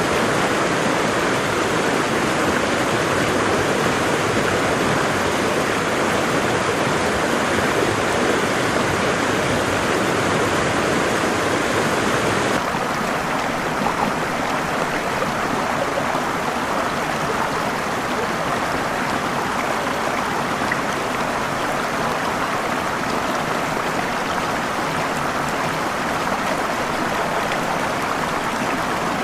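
Steady rush of falling water from a waterfall or stream. About twelve seconds in, it changes abruptly to a slightly quieter, thinner rush with less low rumble.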